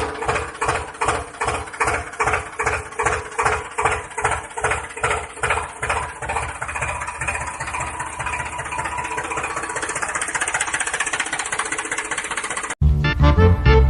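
Tractor engine running with an even beat of about three pulses a second, settling into a smoother, faster run after about seven seconds. It cuts off suddenly near the end.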